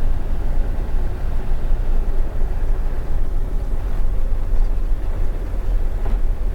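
20 ft box truck driving slowly, with a steady low rumble of engine and road noise heard from the cab.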